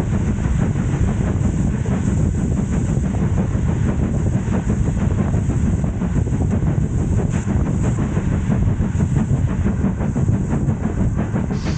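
Heritage railway train running along the track: a steady low rumble with rapid clicking from the wheels and rails.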